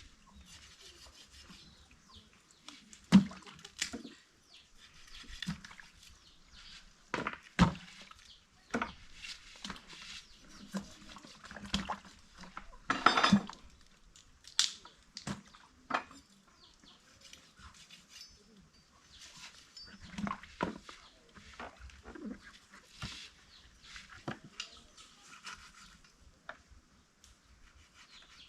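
Irregular knocks and scuffling with short cries from a rooster being handled.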